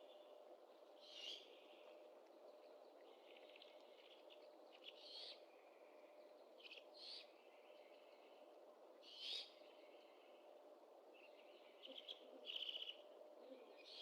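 Great horned owls calling faintly at the nest: short, raspy, high-pitched calls every few seconds, several in quick succession near the end, over a faint steady hum.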